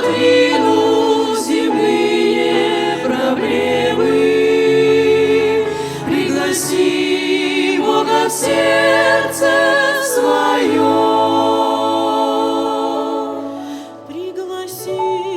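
Choir singing the last lines of a Christmas hymn's chorus in long held chords, then fading away near the end.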